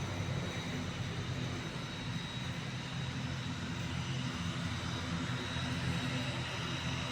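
ATR 72-600's Pratt & Whitney PW127 turboprop engines running steadily: a low, even drone with a thin high whine over it.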